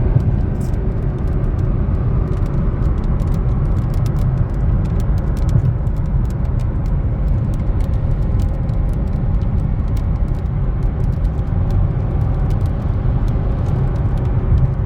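Steady rumble of road and engine noise inside a moving car, with faint scattered ticks throughout.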